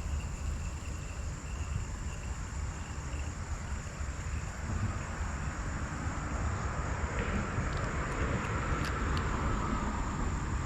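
Outdoor creekside ambience: a steady low rumble, with a thin, steady high insect drone over it. A soft hiss builds in the second half, and there are a few faint ticks near the end.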